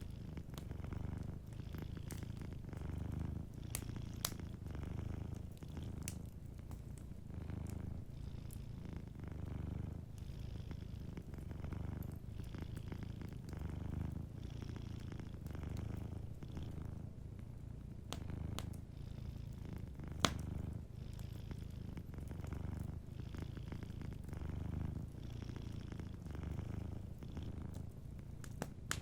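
Domestic cat purring, a low rumble that pulses in a steady rhythm, mixed with a wood fire giving occasional sharp crackling pops, the loudest about twenty seconds in.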